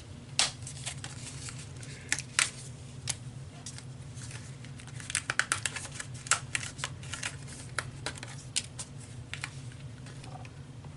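Scrapbook paper and thin chipboard die-cut pieces being handled on a work table: scattered sharp clicks, taps and light rustles, busiest in the middle, over a steady low hum.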